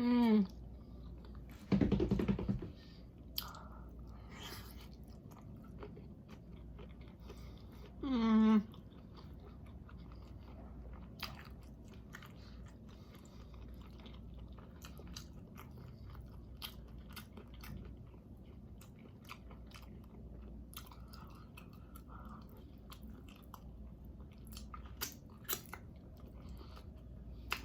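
Close-up chewing and wet mouth clicks of a person eating shrimp and vegetables. Two short falling vocal hums, one at the start and one about eight seconds in, and a dull thump about two seconds in.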